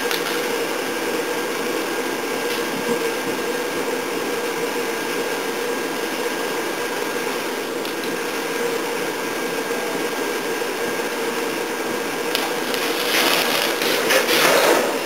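Blower fan running steadily, blowing air into a wood fire: a constant whooshing hum with a held tone. Near the end, a run of sharp clicks and knocks.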